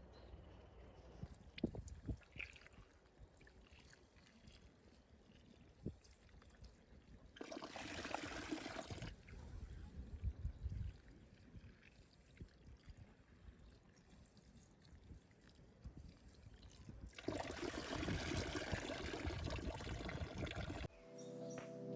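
Water pouring twice, a short pour about seven seconds in and a longer one of about four seconds near the end, with a few light knocks in between.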